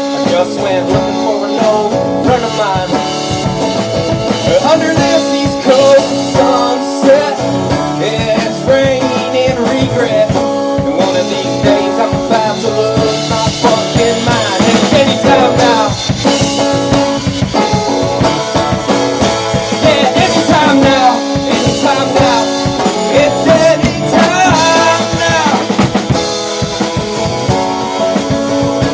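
Acoustic band playing an instrumental break: drum kit and guitars, with a lead line that bends up and down in pitch.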